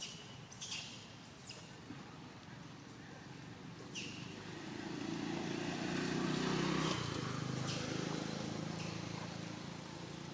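A motor vehicle engine passes by, growing louder to its peak about seven seconds in and then fading. Before it, a few short, high-pitched squeaks sound in the first four seconds.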